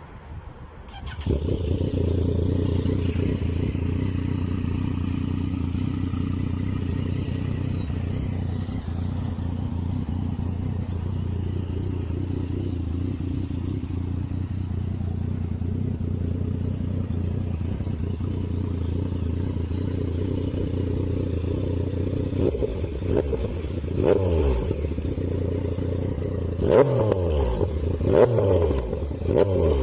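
Yamaha XSR900's inline three-cylinder engine idling steadily through a Revline HP aftermarket exhaust, then revved in several quick throttle blips near the end.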